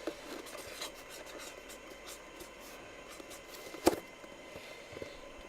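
Faint scratching and rubbing of handwriting on paper, with one sharp click about four seconds in.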